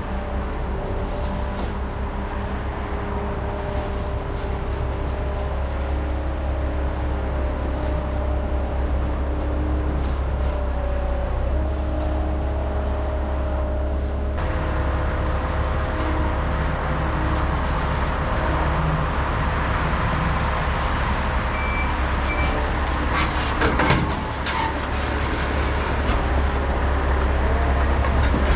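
Heavy diesel engine running steadily under load, with a low drone and several whining tones that shift in pitch. A few sharp metallic clanks come about 23 to 24 seconds in.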